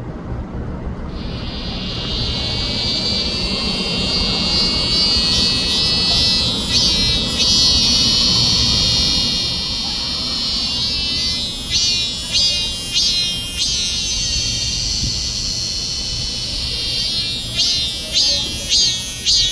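A cicada singing: a loud, high buzzing song that starts about a second in, holds steady, then breaks into pulsed phrases about once a second and quickens near the end. A low rumble runs underneath.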